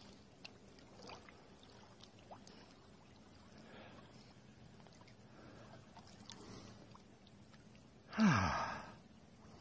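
Faint trickling and lapping of river water with small scattered ticks. Near the end comes one short, loud, breathy vocal sound falling in pitch: a swimmer's exhaled gasp in icy water.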